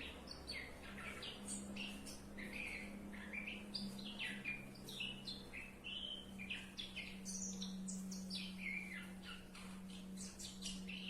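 A small bird chirping and twittering in quick, varied high notes, faint, over a steady low hum.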